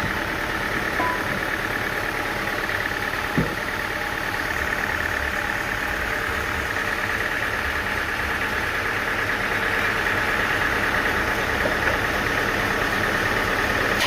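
Sawmill machinery running steadily, an engine-like drone with one short knock about three and a half seconds in.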